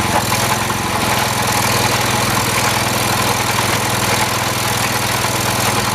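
The single-cylinder engine of a 1978 John Deere 208 lawn tractor running steadily at high throttle on a test drive, with a freshly replaced head gasket. The engine still bogs down under load, which the owner points to carburettor adjustment.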